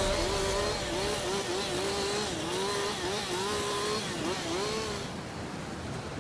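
Jonsered two-stroke chainsaw running at high revs, its pitch wavering and dipping again and again as it bites into wood. It fades out about five seconds in, leaving a steady outdoor hiss.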